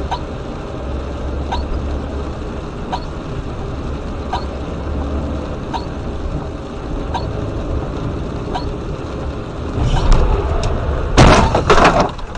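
Car running on the road, with a steady engine and road drone and a faint click about every second and a half. About eleven seconds in comes a loud, short, crashing burst, the impact of a car collision.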